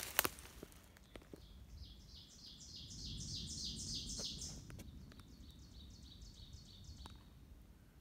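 A bird calling in a rapid series of sharp, repeated high notes, about five a second. The calls are loudest for a couple of seconds, then weaken and stop about seven seconds in. A few footsteps crunch on the forest floor in the first second or so.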